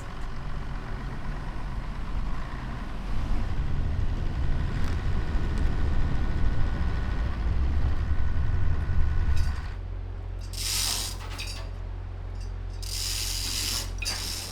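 Heavy machinery rumbling low, then a steadier hum broken twice by bursts of hissing.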